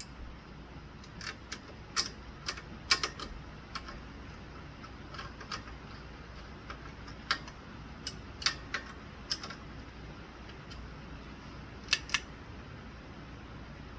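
Irregular sharp clicks and taps, about a dozen, from handling the ceiling fan's small metal hardware, with a double click near the end, over a faint low steady hum.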